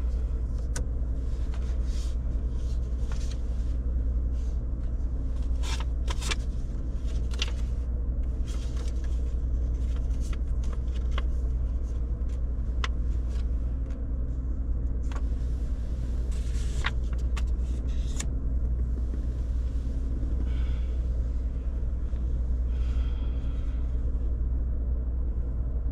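Steady low rumble of a vehicle under way, with scattered short clicks and ticks over it.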